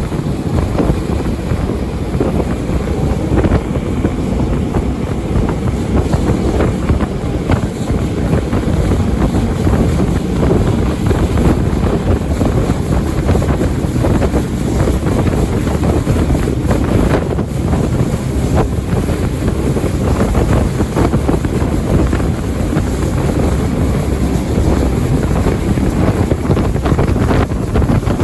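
Jet boat running under way on a river, its engine noise mixed with heavy wind buffeting the microphone in a steady low rush.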